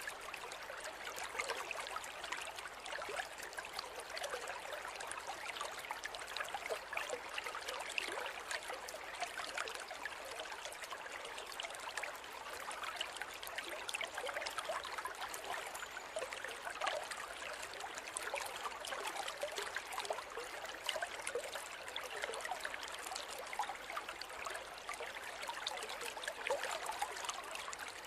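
A river flowing over stones, a steady rush of water with fine trickling and splashing.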